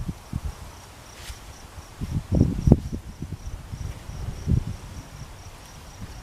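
An insect, cricket-like, chirps steadily in a fast, even high-pitched pulse, with a few low dull thumps about two to three seconds in and again near four and a half seconds.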